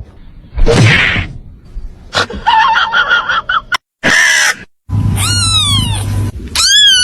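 Domestic cats meowing: a few short noisy sounds, then several pitched meows in the second half, each rising and falling, the loudest near the end.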